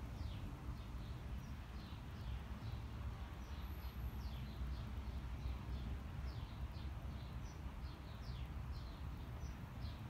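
Small birds chirping on and off, many short high notes that fall in pitch, over a steady low background rumble.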